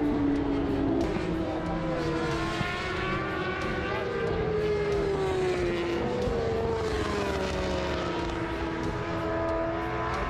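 Superbike engines running on the circuit. Several engine notes overlap, each rising and falling in pitch as the bikes accelerate and slow around the track.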